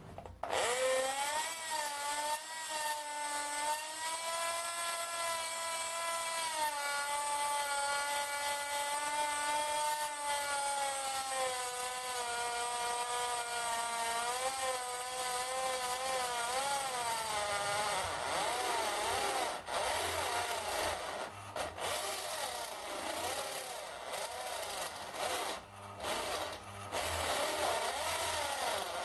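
Electric drill with a dying gearbox driving an HSS step drill bit into mild steel: a loud, continuous metallic whine whose pitch wavers as the load changes. In the second half it turns rougher and stops briefly a few times as the bit stalls and won't cut any further under heavy pushing.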